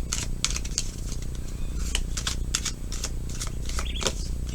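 Tarot cards being shuffled and flicked by hand: an irregular run of crisp card clicks and snaps, with a steady low hum underneath.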